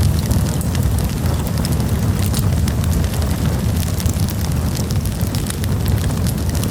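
Wood campfire burning with a continuous low rumble and frequent small, sharp crackles and pops.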